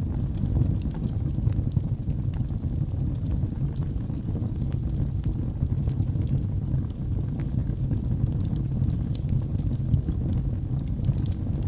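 Wood fire burning in a fireplace: a steady low rush of flames with frequent small, sharp crackles and pops from the burning logs.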